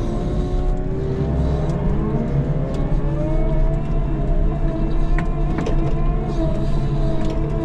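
Snow-plowing vehicle's engine running under load, its pitch dipping and rising over the first two seconds and then holding steady.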